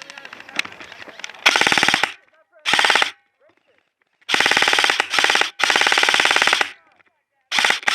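Airsoft gun firing loud fully automatic bursts: about five bursts, each under a second long, with short pauses between them, after fainter rapid fire in the first second and a half.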